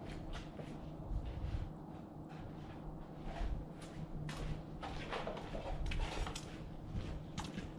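Irregular light knocks and clicks, a few louder ones in the second half, over a steady low hum.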